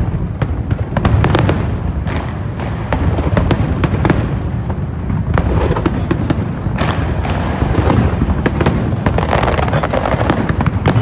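Fireworks display: a dense, continuous run of bangs from bursting shells mixed with crackling.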